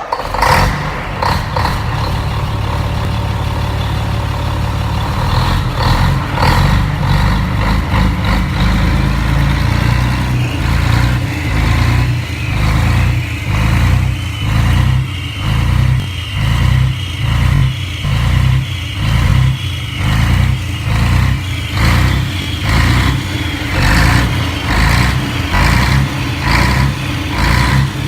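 Scania DSC11 21 eleven-litre six-cylinder turbo diesel, a high-mileage engine with 700,000 km, catching right at the start and running with a deep, steady rumble. From about a third of the way in, its sound swells and eases roughly once a second.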